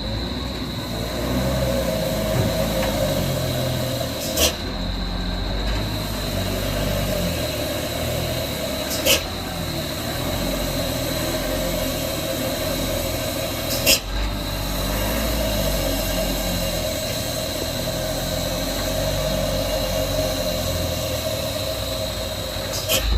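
Vehicle engine idling steadily, with a sharp click every four to five seconds for the first part.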